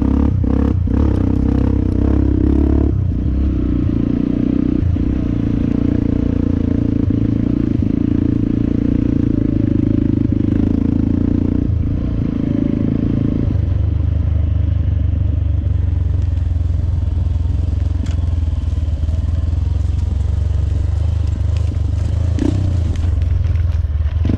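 Dirt bike engine running as the bike climbs a rough, rutted trail, with scattered knocks and clatter from the bike over the bumps. About halfway through, the engine note drops to a lower pitch.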